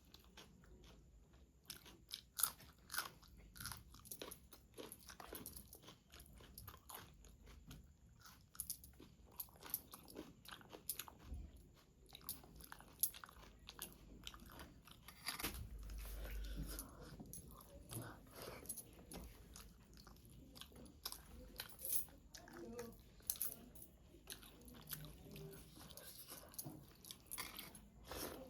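A person eating close to the microphone: chewing and crunching mouthfuls of rice with spicy chicken curry, egg poach, raw onion and chilli, heard as a steady run of short crunches and mouth clicks.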